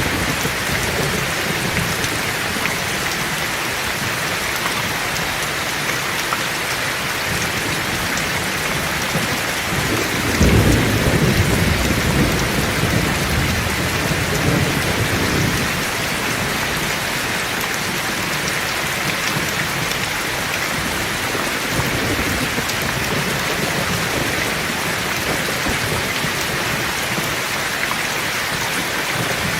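Heavy rain falling steadily. A clap of thunder breaks about ten seconds in and rumbles away over five seconds or so.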